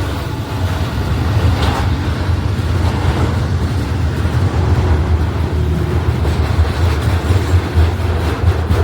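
Freight train passing close by: a loud, steady low rumble of the cars running on the rails.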